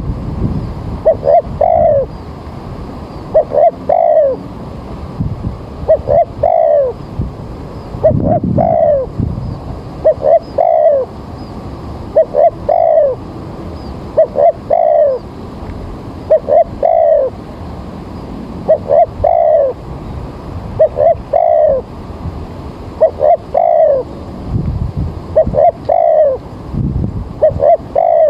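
Spotted dove (tekukur) cooing: a short phrase of two or three notes repeated about every two seconds, over a steady background hiss.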